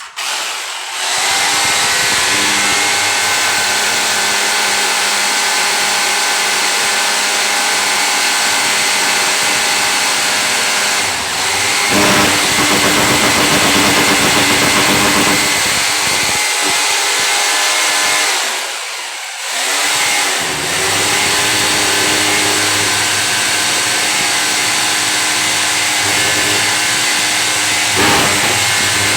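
An electric power tool's motor running steadily under load. It eases off briefly about nineteen seconds in, then picks up again.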